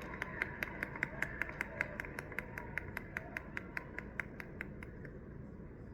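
Hands clapping close by in a quick, even beat of about five claps a second, dying away near the end.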